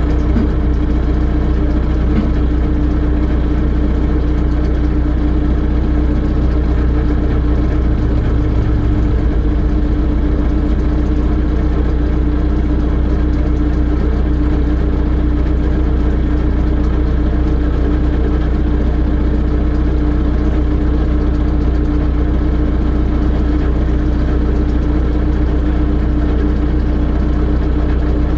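Telehandler engine running steadily at an even, unchanging speed.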